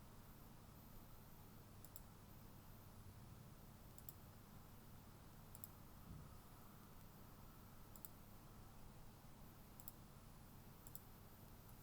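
Near silence with a low hum and about six faint, sharp computer mouse clicks, one every second or two.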